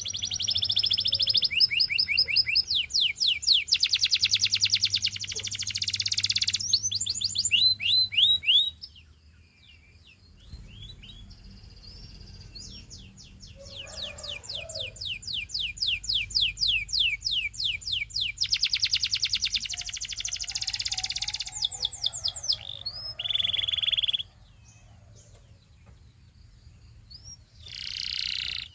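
Domestic canary singing in long phrases of rapid, repeated high trilled notes. The song breaks off for a couple of seconds about nine seconds in, and again for a few seconds near the end before starting up once more.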